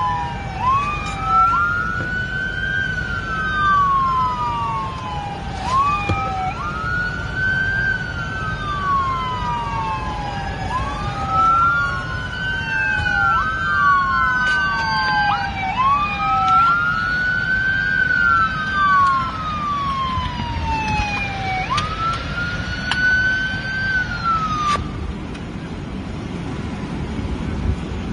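Police car siren on a slow wail, its pitch rising and falling about once every five seconds over a steady low rumble of engine and road noise. The siren stops about 25 seconds in, leaving only the rumble.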